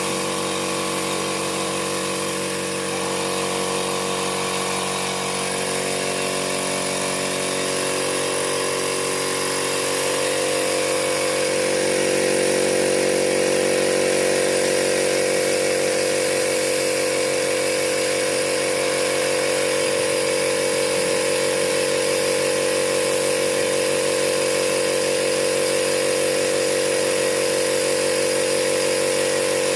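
A power tool's motor running steadily, its pitch shifting about ten seconds in.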